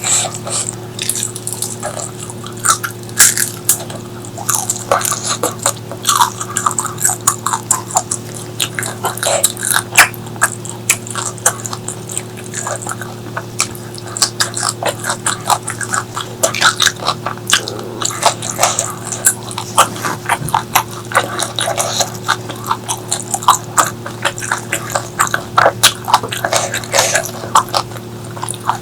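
Close-miked eating sounds: a person chewing with many quick, irregular wet smacks and clicks of the mouth, over a steady low hum.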